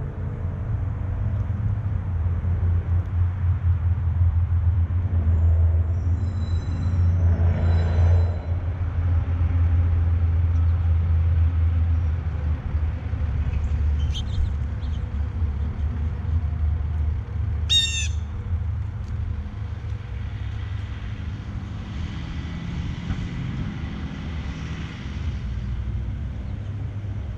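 Backyard feeder birds calling: a few high chirps and one short, harsh call about two-thirds of the way through, over a loud steady low rumble.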